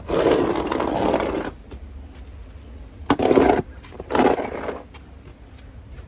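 Snow shovel scraping across snowy pavement in three strokes: one long push at the start, then two shorter ones about three and four seconds in.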